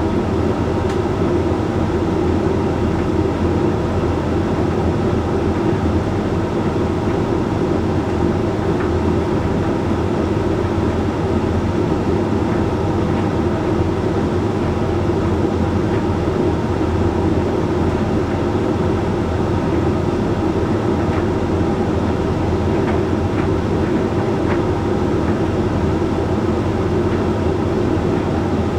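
Hoover Link X Care HLX C10DRGR condenser tumble dryer running mid-cycle: a steady hum and rumble of the motor, fan and turning drum. A few faint ticks come in the second half.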